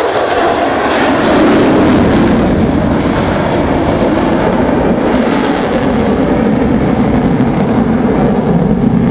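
Loud jet roar of an F-35C Lightning II's single Pratt & Whitney F135 afterburning turbofan as the jet flies past. The pitch drops over the first couple of seconds, then a steady low rumble carries on.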